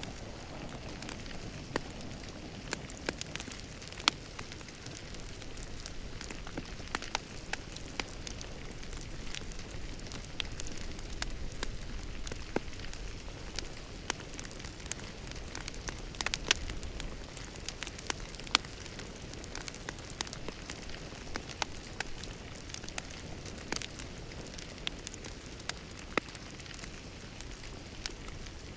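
Wood fire in a fireplace crackling, with irregular sharp pops and snaps over a steady soft hiss of burning.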